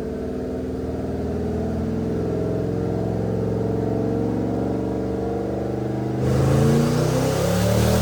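Twin-turbocharged 2014 Mustang GT's 5.0 Coyote V8 under acceleration, its pitch rising slowly; about six seconds in it gets suddenly louder, with a hiss, and the pitch climbs quickly.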